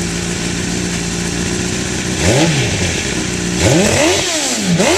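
Honda CBR1000RR inline-four running through a Micron slip-on exhaust, idling steadily, then revved by hand: one short throttle blip about two seconds in, and two more in quick succession near the end, each rising and falling back to idle.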